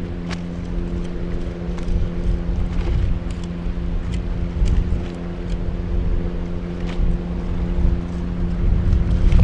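Longtail boat engine running at a steady speed, a constant drone over a low rumble.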